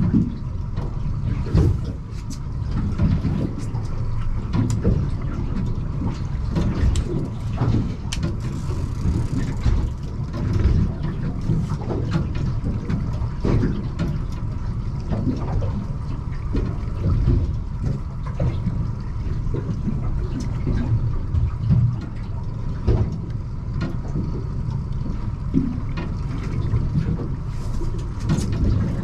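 Fishing boat at sea on a drift: a steady low rumble with irregular knocks and splashes throughout, and a faint steady hum.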